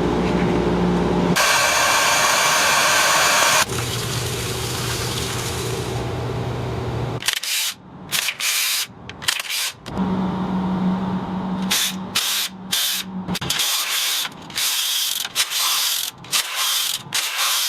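Power tools used on a truck transmission: a steady running stretch, then many short bursts of a tool triggered on and off, with sudden stops between them.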